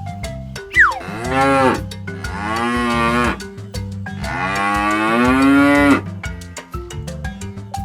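Cow mooing three times, the last call the longest, about two seconds, over light background music.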